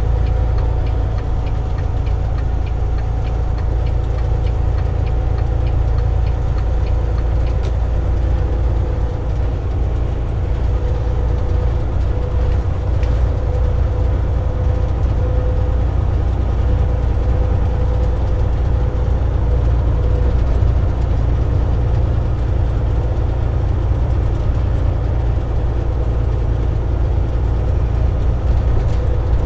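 Semi-truck's diesel engine running steadily while the truck drives, heard from inside the cab: a constant low rumble with a steady drone over it.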